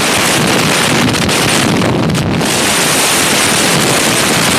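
Loud, steady wind rush buffeting the microphone of a moving motorcycle.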